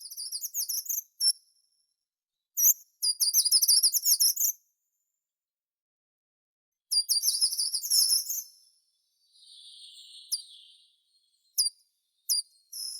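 A songbird singing in short phrases of rapid, repeated high notes separated by pauses of a second or two. Near the end come a few single sharp, falling notes.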